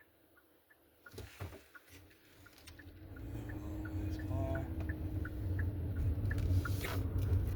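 Car cabin: a turn-signal clicker ticking about three times a second, a few knocks about a second in, then engine and road rumble building from about three seconds in as the car pulls away.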